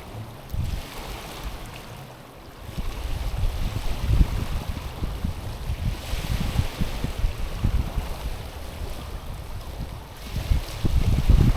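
Small ocean waves washing in and out over a stony shore, swelling around three and six seconds in, easing off, then building again near the end, with wind buffeting the microphone in low rumbles.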